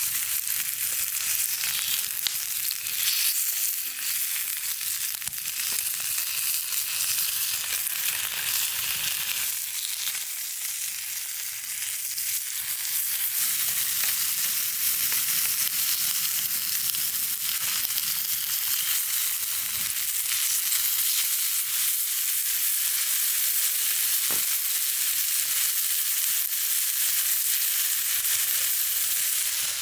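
Steady sizzling of food frying in a pan, with one sharp click about two-thirds of the way through.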